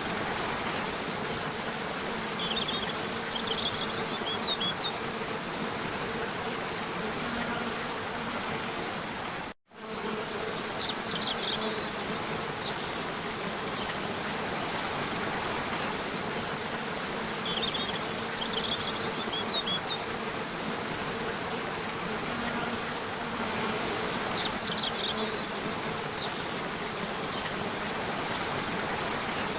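Nature ambience of insects buzzing steadily over a soft hiss, with short high chirps in small clusters several times. The sound cuts out for an instant about ten seconds in.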